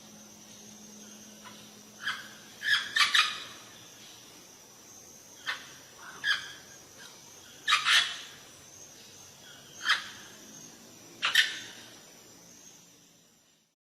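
A parrot giving short, sharp squawks, about ten in all, some in quick pairs, at irregular intervals.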